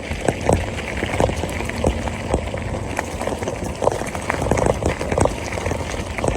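Mountain bike rolling along a trail, its frame and parts rattling with irregular knocks and clicks over bumps, over a steady low rumble.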